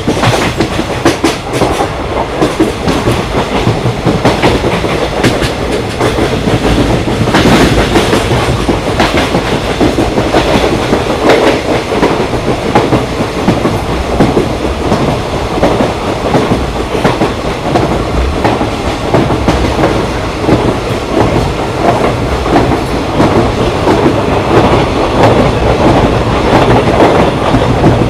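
Indian Railways express train running along the track, a loud steady rumble with rapid clicks and clatter of the wheels over the rails.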